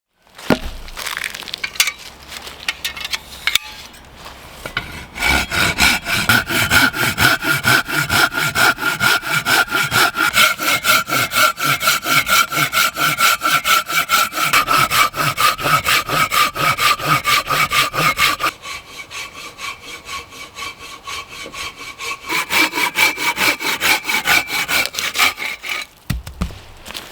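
Hand saw cutting firewood in quick, regular back-and-forth strokes with a ringing tone. A few hesitant strokes at first settle into a steady run about five seconds in. The strokes go quieter for a few seconds in the middle, then pick up again and stop near the end.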